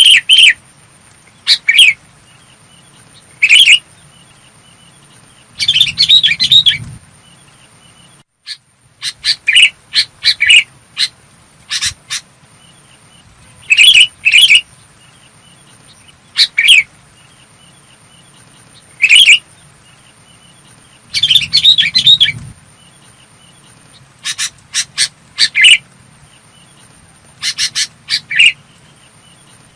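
Sooty-headed bulbul singing: short, clear, bubbling phrases, each under a second, repeated every couple of seconds.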